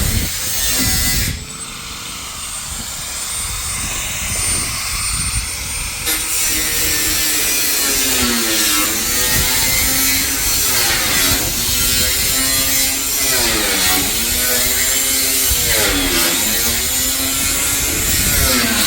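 A small electric motor, like a power tool's, running, its pitch dipping and recovering over and over about every second and a half, as if it is repeatedly loaded.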